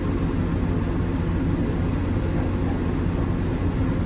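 Steady low hum of the machinery in a mobile CT imaging truck, running without change.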